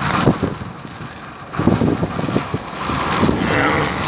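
Rain falling on a boat, with wind on the microphone and irregular crackles and knocks throughout.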